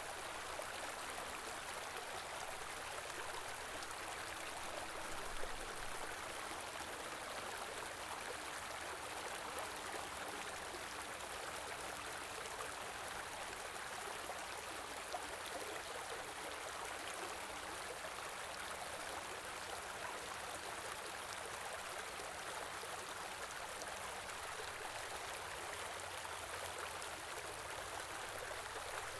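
Small stream flowing steadily, an even rush of running water, with a couple of faint brief splashes or knocks about five and fifteen seconds in.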